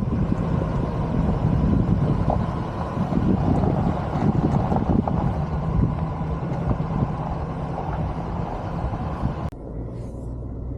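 Pickup truck driving on a rough dirt road: steady engine drone with road rumble and occasional knocks. About nine and a half seconds in it cuts off suddenly to a quieter, lower hum.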